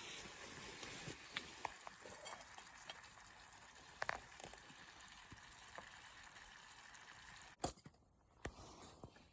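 Food cooking over a wood campfire: a steady hiss with scattered small crackles and pops. A sharp click comes near the end, after which the sound drops quieter.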